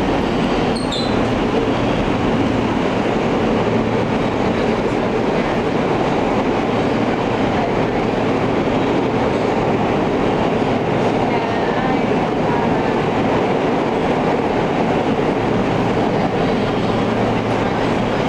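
Alstom R160A subway car running between stations, heard from inside the car: a steady rumble and rattle of wheels on rail and the car's running gear at an even level.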